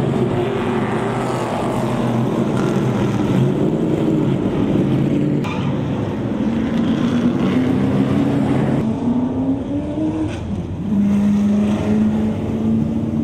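Race car engines running hot laps on a short oval track, several cars at once, their pitch rising and falling as they accelerate and lift. The sound jumps abruptly twice, at about five and a half and nine seconds in.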